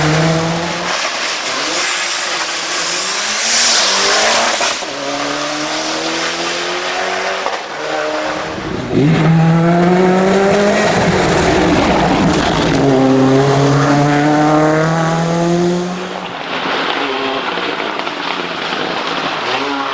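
Ford Escort RS Cosworth's turbocharged 2.0-litre four-cylinder engine pulling hard: its pitch rises through each gear and drops at every shift, several times over. A loud hiss comes through about four seconds in.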